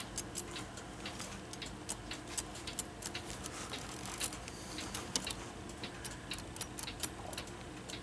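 Light, uneven metallic clicks and taps of brass clock wheels and plates being handled, as the pivots of a cleaned mantel clock movement are wiggled in their holes to check for worn bushings.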